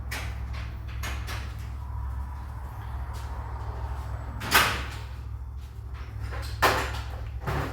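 Two loud, sharp knocks a couple of seconds apart, with a few fainter ones, over a steady low hum.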